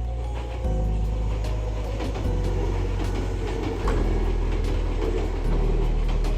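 Kintetsu Minami-Osaka Line electric train running by, a steady noise.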